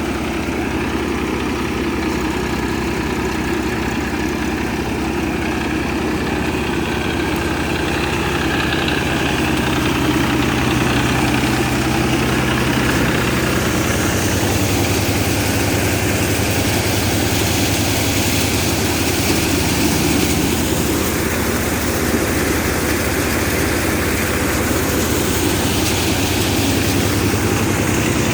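Massey Ferguson tractor's diesel engine running steadily, getting a little louder about ten seconds in.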